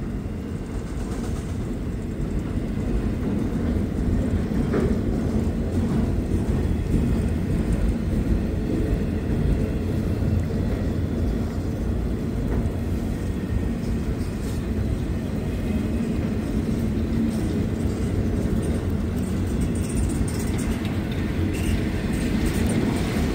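Freight train rolling slowly past, its cars making a steady low rumble on the rails.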